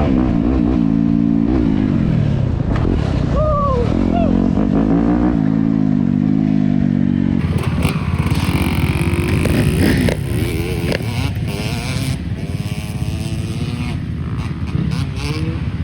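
Dirt bike engine running and revving up and down. About seven seconds in, the sound turns rougher and noisier with some clatter, and the engine carries on underneath.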